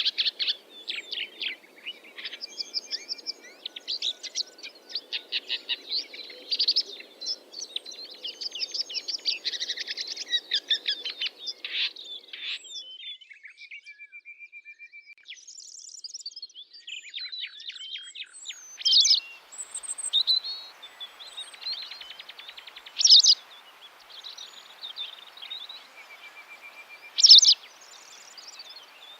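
Songbirds chirping and singing, many overlapping calls at first, thinning briefly in the middle, then a few louder sharp calls in the second half, over a faint steady background hiss.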